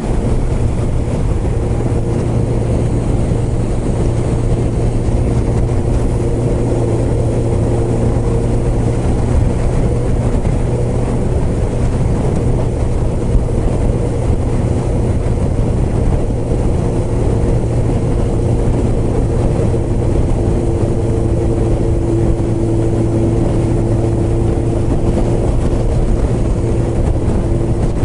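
Suzuki GSX-R1000's inline-four engine running at a steady cruising speed, its note holding even, under a constant rush of wind and road noise.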